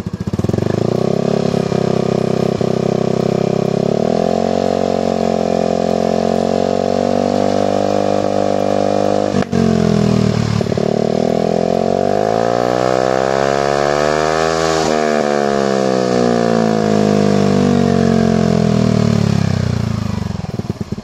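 Yamaha NMAX scooter's single-cylinder engine revved through a replica DOS oval long silencer. The revs climb and hold high, dip briefly about nine seconds in, then swell slowly to a peak and fall back toward idle near the end. The exhaust note is loud on a stock engine.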